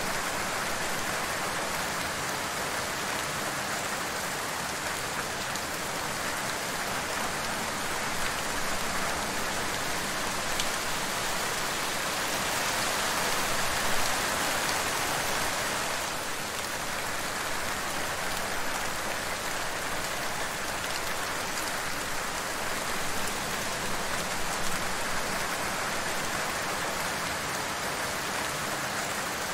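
Steady rain: an even hiss of falling drops, with an occasional slightly louder spatter.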